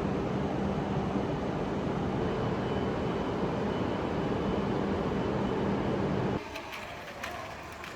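Steady rumble of a moving train heard from inside the carriage, with a low hum running through it. It cuts off about six seconds in, giving way to a much quieter background with a few light clicks.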